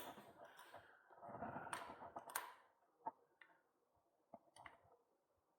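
Faint hand-work noises: light rustling, then about five small, separate clicks of tools or parts being handled.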